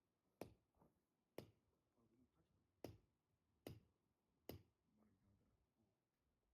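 Five sharp knocks, a second or so apart at uneven spacing, from blows splitting firewood.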